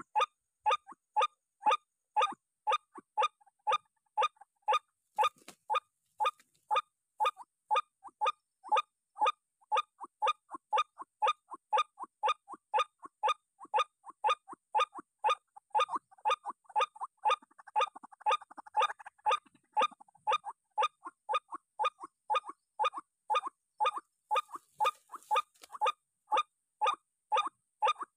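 White-breasted waterhen calls: short, harsh 'kwak' notes repeated at a steady pace of about two to three a second without a break.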